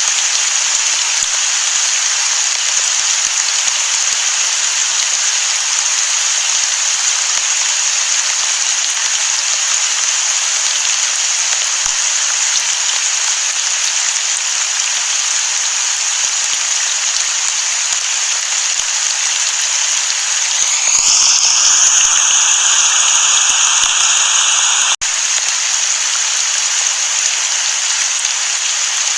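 Steady downpour of rain, a dense even hiss with no thunder. About three-quarters of the way through the hiss turns slightly louder and hollow-sounding for a few seconds, then cuts out for an instant before the steady rain carries on.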